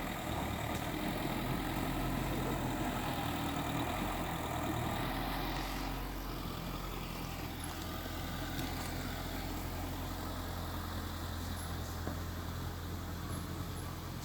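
Diesel engine of heavy earthmoving machinery running steadily, its note shifting slightly about six seconds in.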